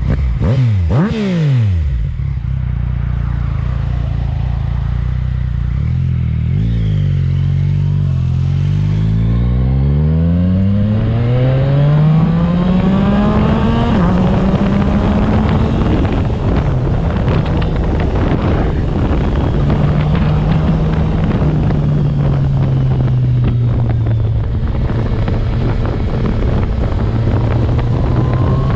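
Yamaha MT-09's inline three-cylinder engine breathing through a Yoshimura exhaust. It drops in pitch within the first two seconds and holds low for a while. From about eight seconds in it climbs steadily under acceleration, falls sharply at a gear change around fourteen seconds, then holds a wavering, rising and falling note.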